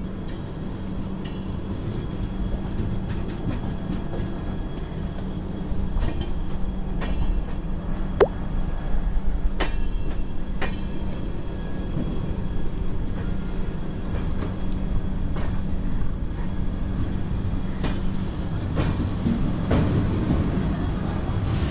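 Passenger train running along the track, heard from on board: a steady rumble with a low hum and scattered sharp clicks and knocks, growing a little louder about six seconds in.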